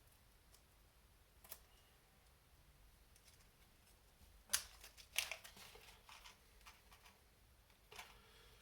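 Small hardware parts being handled and picked out of a compartment box: a few light clicks and rattles, with two sharper clicks around the middle. Otherwise very quiet.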